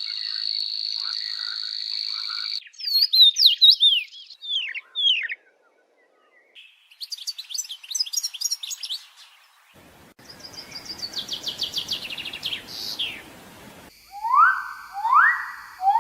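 Several different bird calls edited one after another. First comes a steady high buzzing trill with lower pulses. Then come quick looping whistled notes, a brief silence, and a burst of rapid chirps. After that comes a dry rattling trill, and last, three loud upward-sweeping calls.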